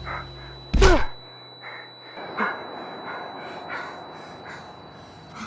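A man's short strained cry, rising and falling in pitch, about a second in, over a low held music note that cuts off about two seconds in; after that, only faint soft sounds.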